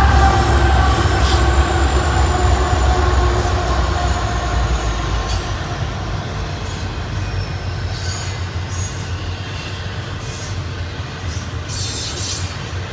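Union Pacific freight train rolling past: a deep diesel locomotive rumble with steady engine tones that fades over the first few seconds, followed by the rolling of the stack cars with thin high wheel squeal and scattered clicks, slowly getting quieter.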